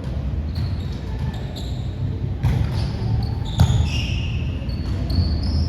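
Basketball game in a gym: the ball bouncing on the court floor with dull, echoing thuds, and short high squeaks scattered through the second half.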